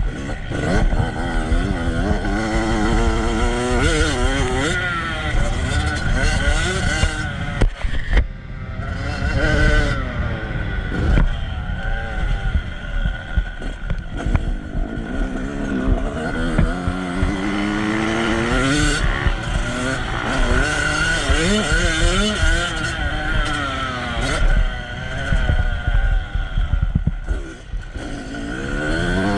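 Motocross motorcycle engines revving, their pitch climbing and dropping again and again, with more than one engine overlapping at times.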